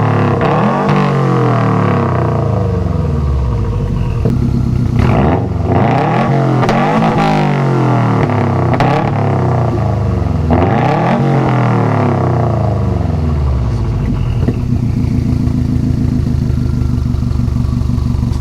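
2019 Subaru WRX STI's turbocharged flat-four engine, through a Remark cat-back exhaust with the mufflers deleted, revved in about four quick blips that each fall back, then settling into a steady idle with the boxer rumble.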